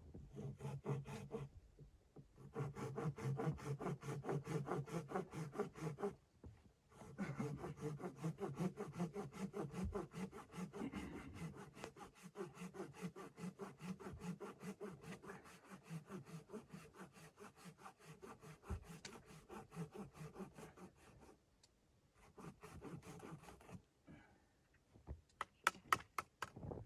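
Hand saw cutting through wood in quick, even strokes, in several bouts with short pauses between them.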